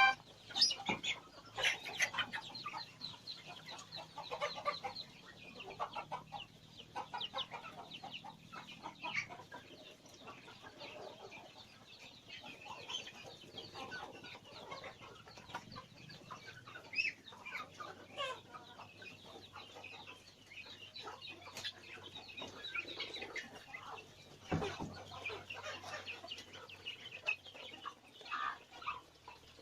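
A crowd of birds calling at once: a steady chatter of many short chirps and clucks overlapping, with a single thump about three quarters of the way through.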